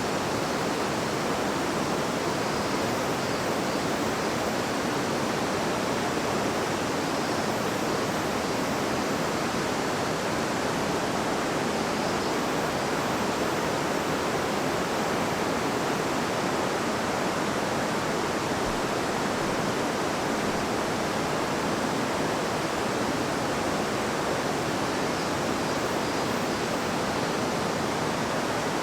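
River water babbling and rushing over stones, a steady even flow with no pauses.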